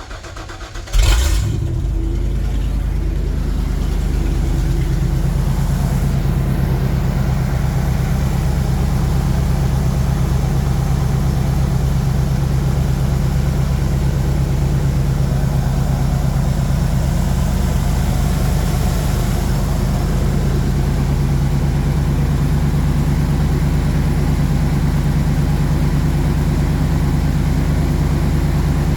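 RV engine starting about a second in and then idling steadily, its exhaust open and loud with no catalytic converter fitted.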